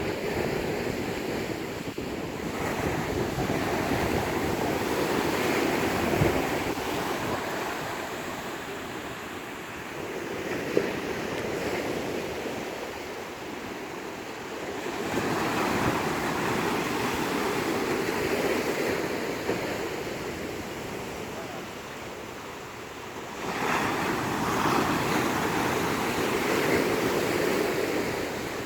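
Rough sea: waves breaking and washing in, the noise swelling and ebbing in long surges several seconds apart, with strong wind buffeting the microphone.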